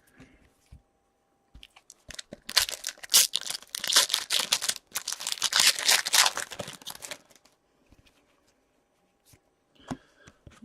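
Wrapper of an Upper Deck hockey card pack being torn open and crinkled: a run of crackly tearing that starts a couple of seconds in and lasts about five seconds, with a short break in the middle.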